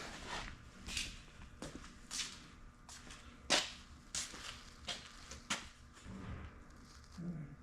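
A series of separate sharp knocks and clanks, about seven spread over several seconds, some with a short ring: steel parts of a welding table being handled and set against each other.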